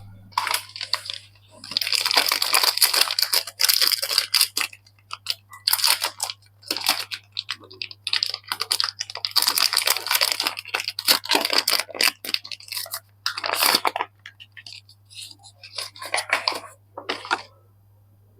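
Soap packaging being unwrapped: wrappers crinkling and tearing in irregular bursts of a second or two, with short pauses between. A steady low hum runs underneath.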